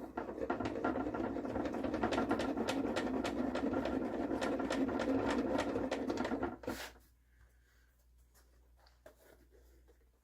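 Table saw's blade-height handwheel being cranked, a steady rattling whir full of small clicks that stops sharply with a knock after about seven seconds.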